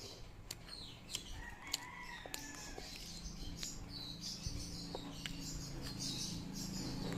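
A bird calling once, faintly, from about a second and a half in for over a second, with scattered small clicks around it.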